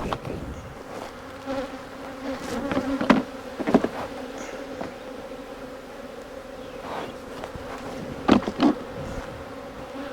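Honeybees buzzing in a steady hum around an opened hive, with a few brief louder sounds about three seconds in and again near the end. The colony has been disturbed by splitting the hive and the bees are defensive.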